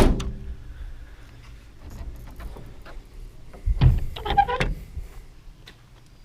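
A pickup truck door shutting with a sharp thud, followed about four seconds in by a cluster of clunks and rattles, with brief squeaks, from handling the truck.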